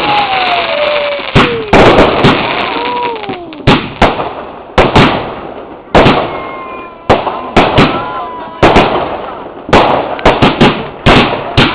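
Fireworks going off in rapid succession: dozens of sharp bangs, some in quick clusters, over continuous crackling, with a few whistling tones gliding down in pitch near the start.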